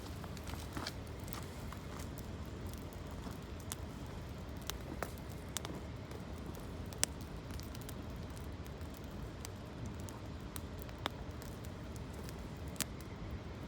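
Wood campfire of gathered branches crackling, with irregular sharp pops scattered over a steady low rush; the loudest pop comes about halfway through.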